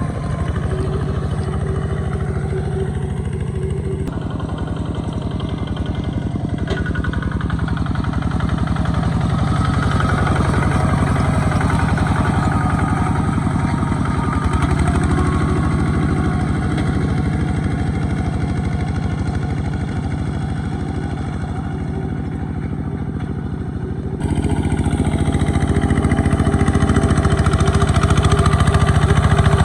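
Small Kubota tractor engine running steadily, its sound changing abruptly about four seconds in and again near the end.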